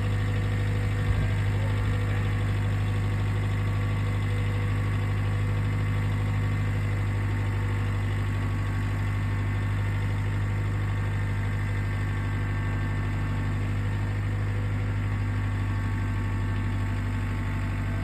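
Kubota tractor's diesel engine running steadily at a constant speed, with a brief knock about a second in.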